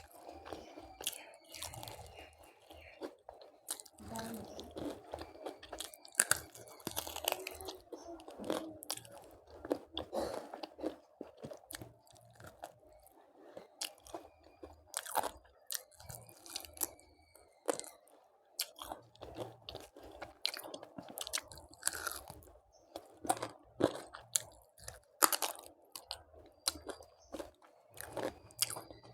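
Close-miked eating sounds: a person chewing and biting into crunchy food, with many irregular, sharp crunches.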